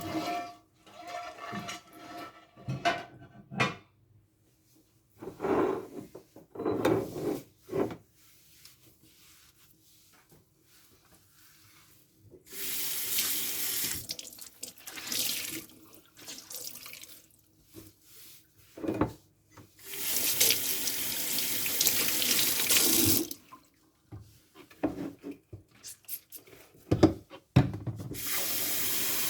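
Kitchen sink tap running in three separate spells while dishes are washed by hand, with short clinks and knocks of dishes and utensils in between.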